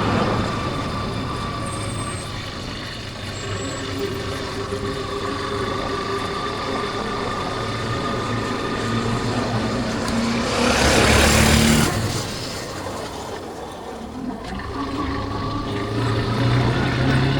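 Yamaha Factor 150's single-cylinder four-stroke engine running steadily on the move, with wind rush. About ten seconds in, a louder rushing swell rises and fades over a couple of seconds.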